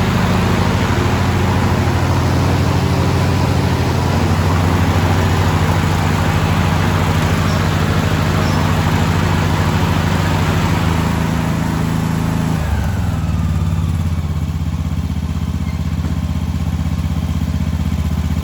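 John Deere S100 lawn tractor's single-cylinder Briggs and Stratton engine running steadily, with a loud rushing hiss over it. About twelve seconds in, the hiss fades and the engine note drops, with a short falling whine, and the engine settles to a smoother, lower run.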